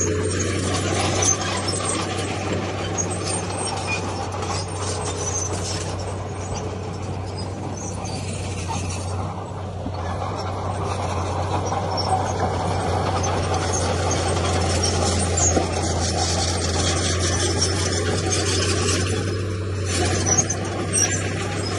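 Heavy diesel earthmoving machinery running steadily with a constant low engine hum, over continuous scraping and rattling of stone and metal.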